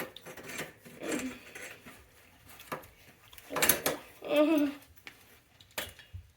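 Metal bike parts and tools clinking and knocking as they are handled: scattered sharp clicks with a louder clatter about three and a half seconds in.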